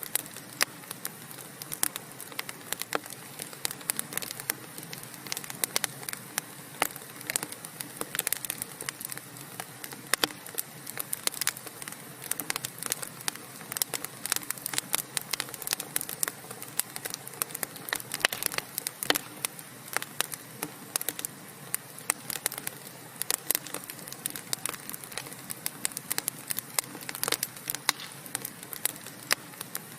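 Wood fire in a fireplace burning steadily, with many sharp irregular pops and crackles over a soft hiss.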